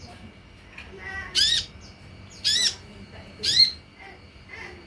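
Sunbird (kolibri ninja) giving short, harsh calls: three loud ones about a second apart, each a quick rise and fall in pitch, with fainter calls between them.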